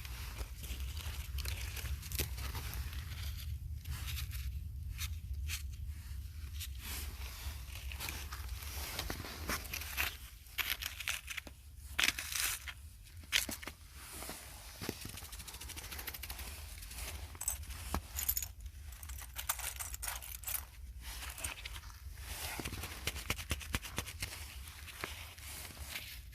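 Close, irregular crackling, crinkling and scraping, the sound of something being handled and crushed, over a steady low rumble.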